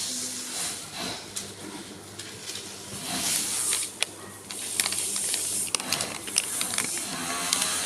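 Scattered small clicks and handling noises over a steady hiss, typical of hands working the presser foot fittings on a sewing machine.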